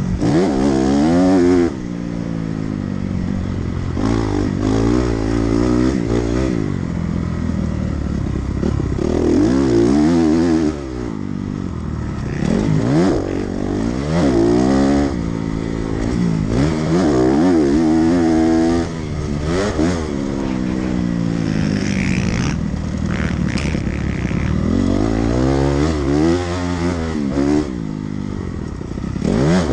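Dirt bike engine being ridden hard on a motocross track. Its pitch climbs and falls over and over as the throttle is opened and shut through the gears, and the throttle is chopped off sharply several times.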